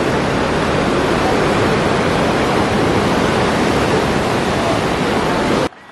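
Whitewater river rushing through a rock gorge: a loud, steady roar of water that cuts off suddenly near the end.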